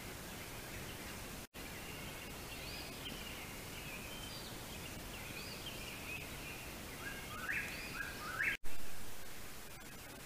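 Faint birds calling outdoors at night in short upward-sweeping notes over a steady hiss, with a quicker run of rising notes near the end. Right after that comes a sudden louder noise that fades over about a second.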